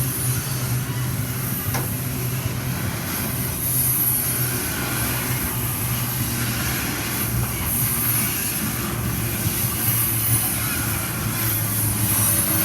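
Diesel locomotive engines running steadily as a train approaches, a low, even drone with a constant hum and a noisy hiss over it.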